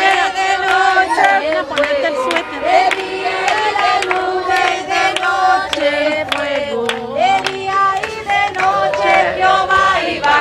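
Congregation singing a worship song together, many voices on a sustained melody, with hand claps keeping time.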